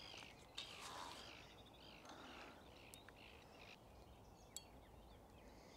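Near silence outdoors, with faint songbirds chirping and a small click about four and a half seconds in.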